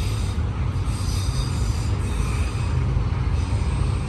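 Auto-rack freight train rolling past: a steady low rumble of wheels on rail, with a faint high wheel squeal through the middle.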